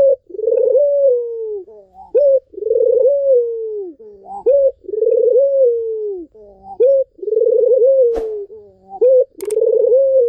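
Barbary dove (puter) cooing in repeated phrases: a short rising note, then a long, drawn-out, slightly wavering coo, about every two seconds.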